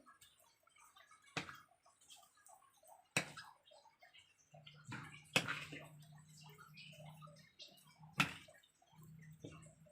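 Chicken pieces being mixed in a wet flour-and-cornstarch batter in a bowl, with soft wet sloshing and four sharp knocks spread through. A low steady hum comes in about halfway.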